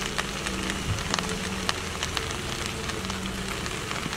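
Diced vegetables and potatoes frying in olive oil in a skillet: a steady sizzling hiss with scattered small crackles.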